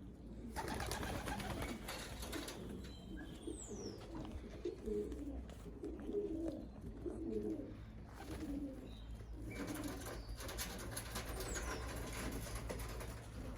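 Racing pigeons cooing, with many low, repeated coos running over one another. Two spells of rushing noise sound over them, one starting about half a second in and one around ten seconds in.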